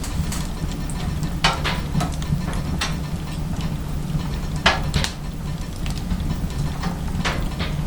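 Firewood crackling and popping in a small steel wood-burning stove: sharp snaps at irregular intervals of a second or so, over a steady low hum.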